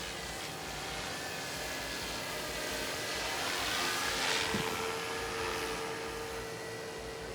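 Radio-controlled model airplane flying past, its motor note growing louder to a peak about halfway through, then fading as it moves away.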